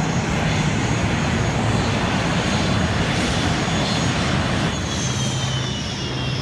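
An airplane flying past at an air show, its engine sound loud and steady, with the pitch of its whine starting to fall near the end as the plane passes.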